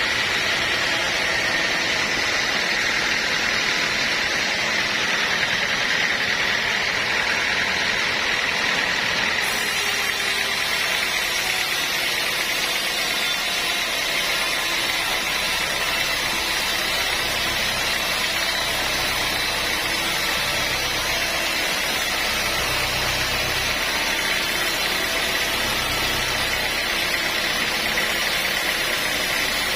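Sawmill machinery running steadily with a constant high whine, joined about halfway through by a low engine hum that comes and goes in pulses.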